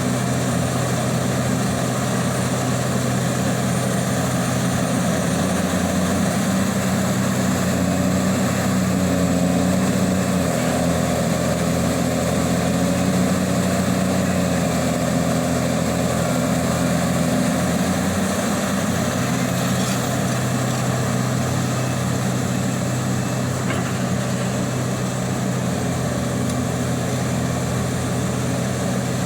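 Heavy diesel engine of a Liebherr 984 hydraulic excavator running steadily, its low note wavering for several seconds in the middle.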